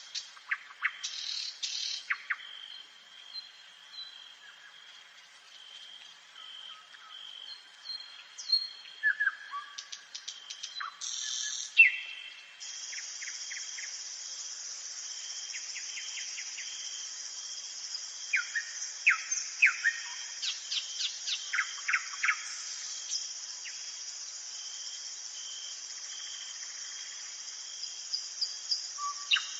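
Nightingale singing: phrases of fast repeated clicking notes and short whistles, broken by pauses. From about a dozen seconds in, an insect's continuous high-pitched trill runs underneath.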